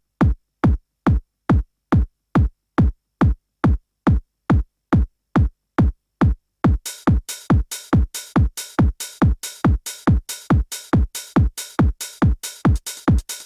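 Euro house track intro: a drum machine kick drum plays a steady four-on-the-floor beat alone, about two kicks a second, each falling in pitch. About halfway through, hi-hats and percussion join between the kicks.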